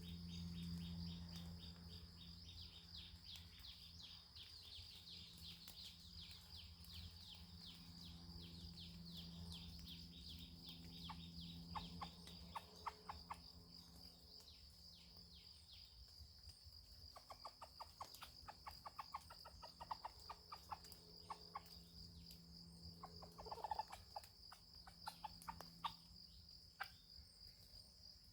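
Faint clucking of junglefowl in quick runs, over a steady high insect drone and fast chirping early on.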